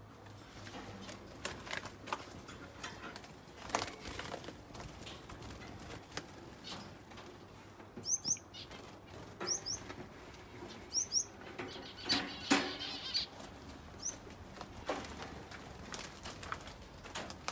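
Wings of small finches and canaries flapping in irregular flurries as the newly released birds fly around the aviary flight and bounce into its flexible mesh, with a few short chirps in the second half.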